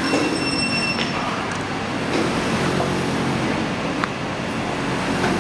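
Steady rumble of a train running through the station, with a brief high-pitched whine in the first second and a few sharp clicks.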